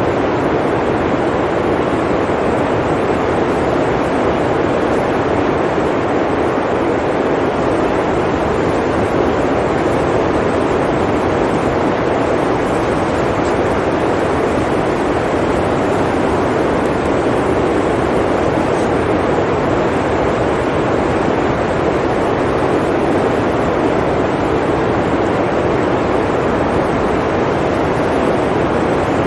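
Blizzard wind: a dense, even rush of noise that holds steady without gusts or breaks.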